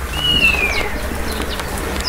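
A bird's single whistled call gliding downward for just under a second, with a few faint higher chirps, over a low steady rumble.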